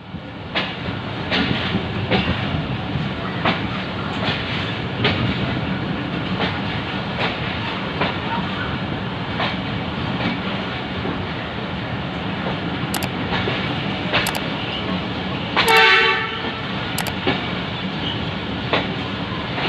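A moving passenger train heard from its coach doorway: a steady running rumble with wheels clicking over rail joints about once a second. A horn sounds in one short blast about sixteen seconds in.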